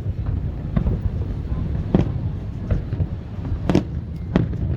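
Aerial fireworks shells bursting: four or five booms at uneven intervals, the loudest about three-quarters of the way through, over a steady low rumble of wind on the microphone.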